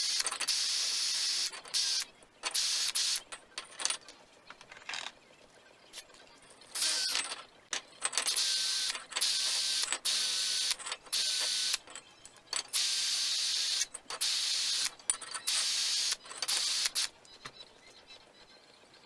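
Repeated short bursts of hissing, on and off, each lasting around a second, as from a spray nozzle or air line, stopping shortly before the end.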